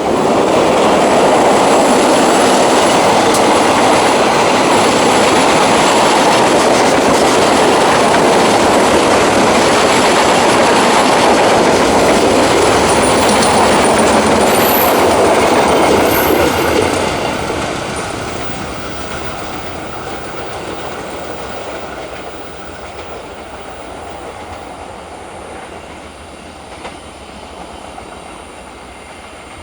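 Train passing close by on the rails, its wheels and cars running loudly for about sixteen seconds, then fading steadily as it moves away.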